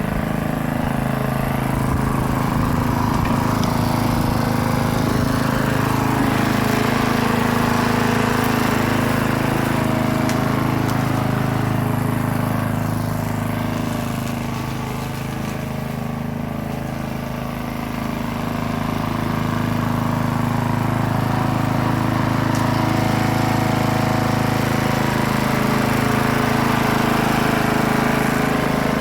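Lawn mower engine running steadily while cutting grass, a low even hum that dips slightly about halfway through, then comes back up.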